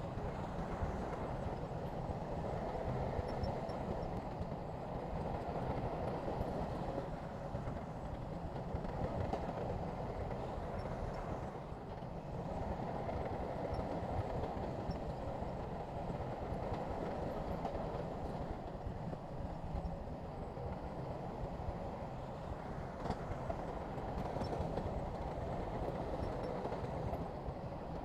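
SHANTUI crawler bulldozer working, its diesel engine running steadily under load.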